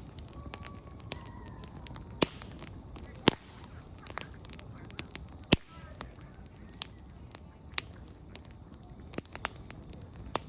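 Wood campfire crackling, with irregular sharp pops of burning firewood over a low steady rustle of flames; two pops, a few seconds in and about halfway, stand out as the loudest.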